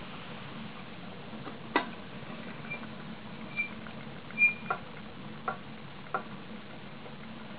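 Firewood burning in a homemade pail-can rocket stove: a few sharp crackles and pops and three short high squeaks over a steady low hum.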